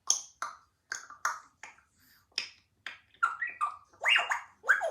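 African grey parrot making a rapid series of short, sharp clicks and pops, about a dozen, some with a brief squeaky rise or fall in pitch.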